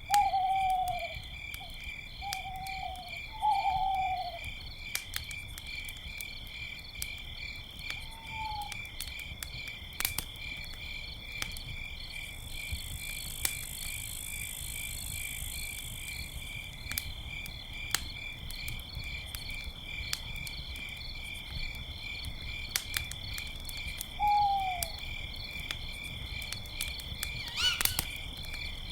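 Crickets chirping steadily in a fast pulsing trill, with the scattered clicks and pops of a crackling campfire. Short falling owl hoots come several times in the first few seconds, again about eight seconds in and once more near the end.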